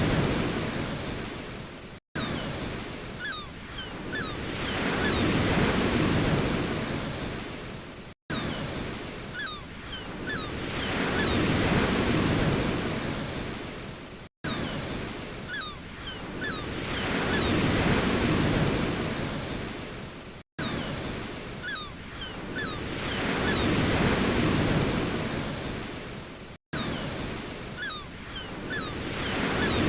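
Ocean waves surging and washing back, each swell rising and falling over about six seconds. The same short wave recording repeats as a loop, with a brief silent gap between repeats and a few faint short high chirps in each cycle.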